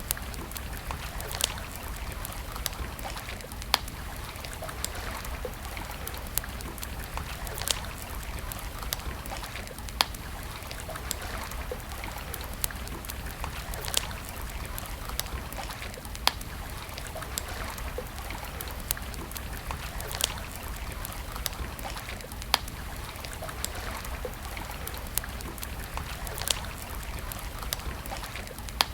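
Wood campfire crackling: irregular small snaps over a steady rushing hiss, with a louder sharp pop every few seconds.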